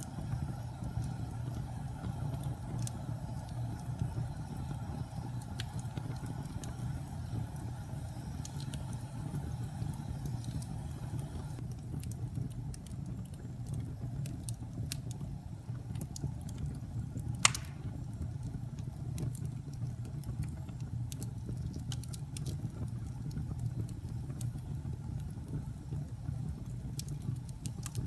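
Wood fire burning in a fireplace: a steady low rumble of flames with scattered sharp crackles, and one louder pop a little past halfway.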